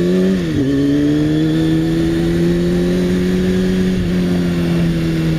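Motorcycle engine heard from on board, pulling up in revs, a quick gear change about half a second in, then holding a steady pitch at cruising speed.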